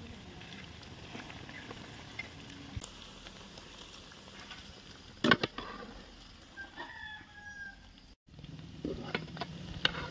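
A sharp knock a little past five seconds in, then a short, slightly falling bird call about a second later, over a steady low background noise; a couple more clicks near the end.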